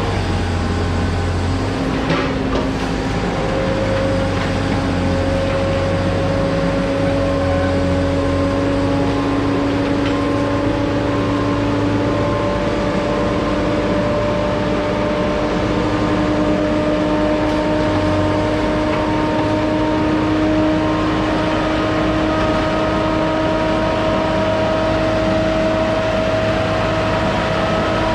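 An engine running steadily under load, its pitch slowly creeping upward and then dropping at the very end as it comes off.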